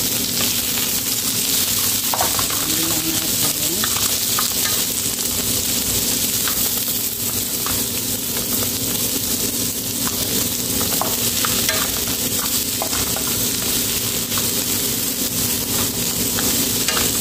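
Sliced red onion and ginger sizzling in olive oil in a nonstick frying pan, stirred with a wooden spatula that gives scattered light scrapes and taps against the pan.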